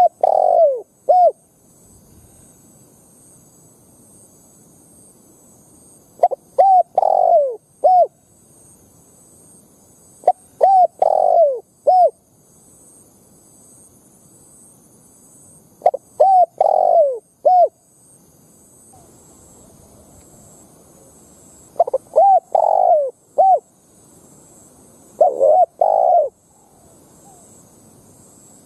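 Spotted dove cooing: six phrases, each a couple of short coos, a longer falling coo and a short final note, repeated every four to six seconds.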